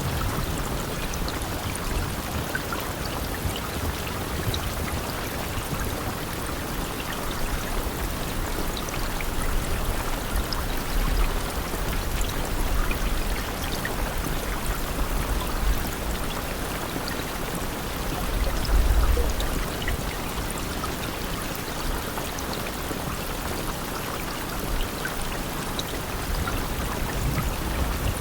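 Steady rain falling, an even hiss with scattered drop ticks, and a few low rumbles, the strongest about two-thirds of the way through.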